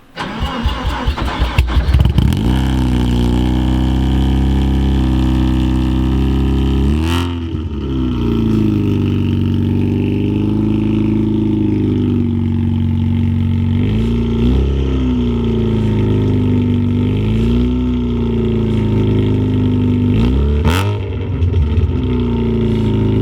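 Mazda RX-7 FC's 13B twin-rotor rotary engine cranking for about two seconds, then catching and idling, with several brief blips of the throttle.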